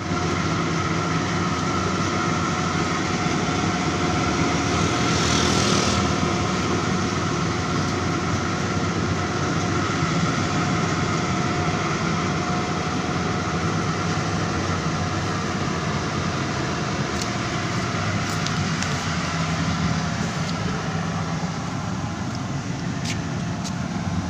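Rice combine harvester's engine running steadily, a constant mechanical drone with a few faint ticks late on.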